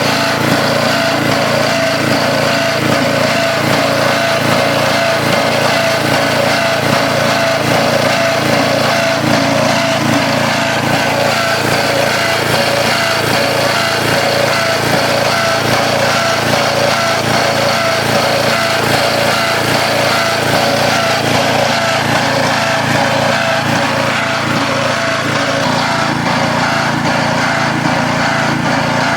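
Engine of a construction-site machine running steadily at a constant speed, loud and unchanging.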